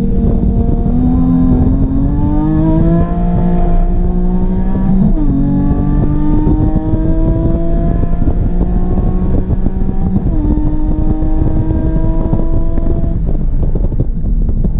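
Car engine under hard acceleration on track, its pitch climbing steadily, with sharp drops at two upshifts about five and ten seconds in. The pitch falls again near the end, as the car comes off full throttle.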